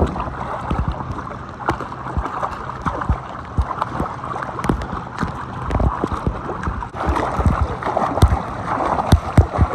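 Lake water sloshing and splashing close to the microphone, with many small irregular splashes.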